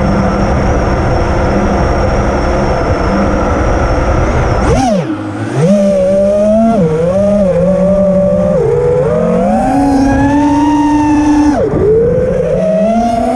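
FPV quadcopter's four brushless motors (2306 size, 2850KV) whining. They hold a steady pitch for the first few seconds. About five seconds in the pitch dips sharply, then it rises and falls with throttle, with another sudden drop near the end.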